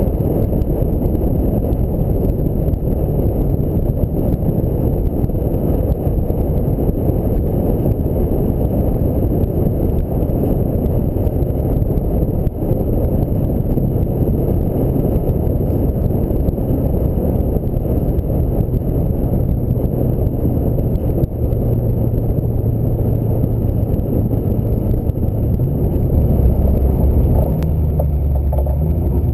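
Ford Mustang SVT Cobra on the move: a steady low rumble of wind and road noise under the V8's drone. Near the end the engine note steps down in pitch and grows louder.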